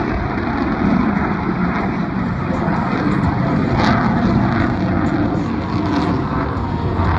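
Steady, loud jet noise from the F-22 Raptor's engines as the fighter flies its display.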